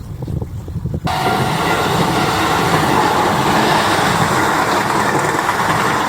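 A train passing at close range on the JR Yamatoji Line: a low rumble builds, then about a second in the train reaches the spot with a sudden loud rush of wheel and running noise that holds steady.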